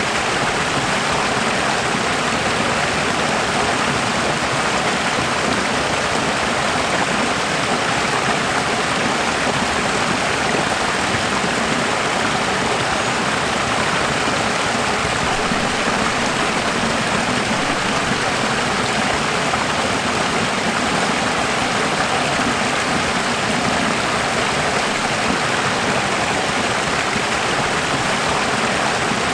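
Running water flowing steadily: an even, unbroken rushing hiss.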